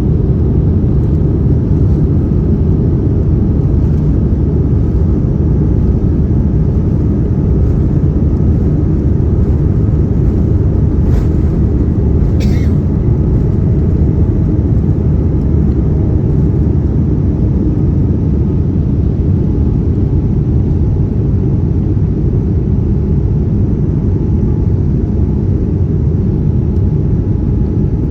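Steady, loud low rumble of an airliner cabin: engine and airflow noise heard from inside the plane. Two brief light clicks sound about 11 and 12 seconds in.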